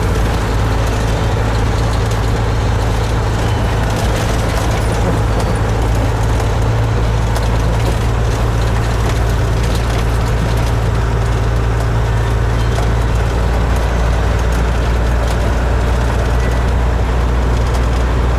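Kenworth truck's diesel engine running steadily: a low drone whose pitch does not change.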